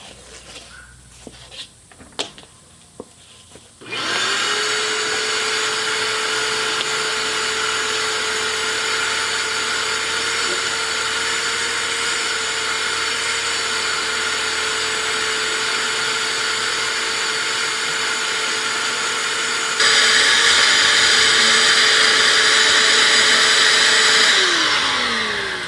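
A few clicks and knocks, then a shop vac switches on about four seconds in and runs steadily with a whine, vacuuming out a truck's interior. Near the end it gets louder and hissier, then it is switched off and winds down, its pitch falling.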